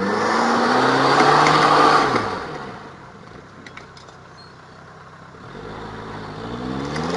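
A vehicle engine revving up and holding high, then dropping back to a low idle, and revving up again near the end.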